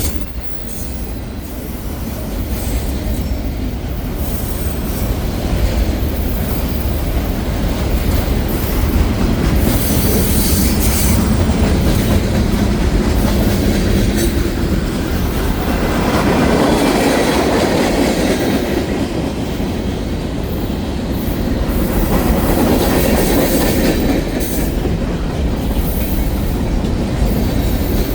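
Union Pacific freight train rolling past: a continuous rumble of steel wheels on the rails that grows somewhat louder through the middle.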